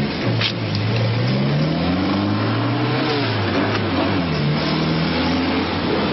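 Car engine revving up and easing off, its pitch rising and falling twice over a steady noise of traffic.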